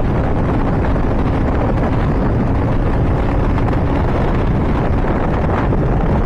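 Wind rushing over the microphone on a fast-moving motorcycle, with the Honda CBR600RR's inline-four engine droning steadily underneath; no change in revs.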